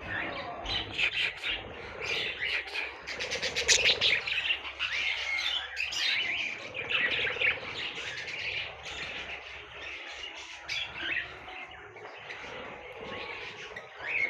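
A mixed flock of small aviary birds chirping and squawking at once: a dense, continuous chatter of short calls, busiest about four seconds in.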